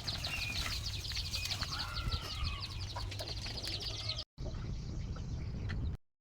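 Village chickens clucking, with fast high chirping through the first few seconds. The sound cuts off briefly about four seconds in and resumes duller.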